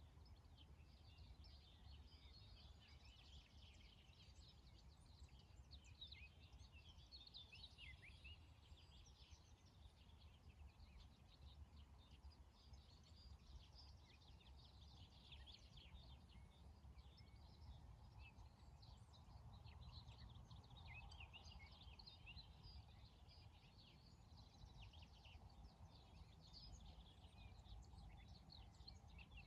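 Faint birdsong from many small birds: dense, overlapping short chirps and trills all through, over a low, steady rumble of background noise.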